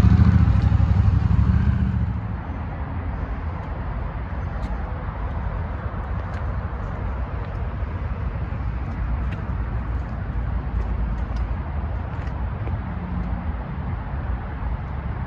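Steady low rumble of road vehicle noise, louder for about the first two seconds, with a few faint ticks.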